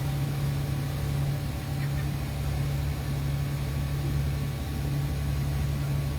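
Boat engine running steadily while the boat cruises, a constant low drone.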